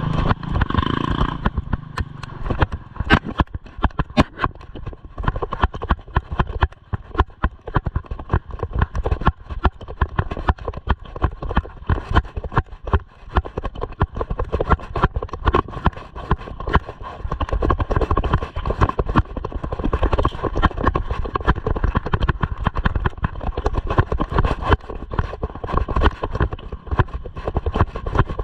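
Mountain bike riding over a rough dirt trail: a continuous, irregular rattle of knocks and clatter from the bike over a low rumble, with a faint steady hum underneath.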